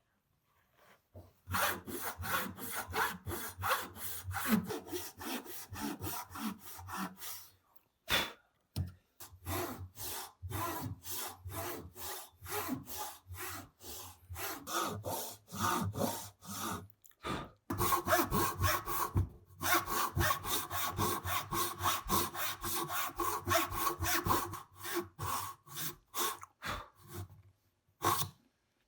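Hand saw cutting wood in quick back-and-forth strokes, several a second, in three long runs with short breaks, and a single knock between the first two runs.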